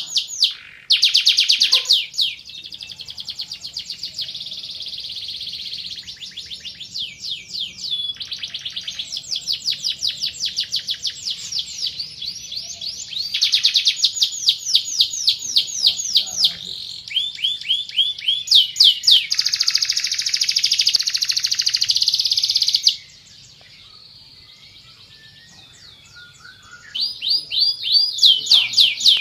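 Domestic canary singing: long runs of rapid, high-pitched repeated trills that change from one roll to the next. The song pauses for about four seconds near the end, then resumes with fast trilling.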